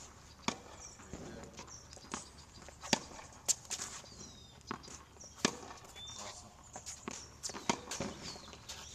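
Tennis balls hit by rackets and bouncing: a string of sharp pops at irregular intervals, roughly one or two a second.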